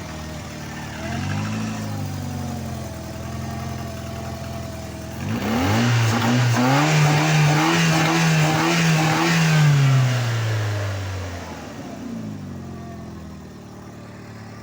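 Rover 200's 1.4-litre 14K4F K-series four-cylinder petrol engine after a cold start, idling with a short blip of the throttle about a second in, then revved up about five seconds in and held high for about five seconds before dropping back to idle. It runs well.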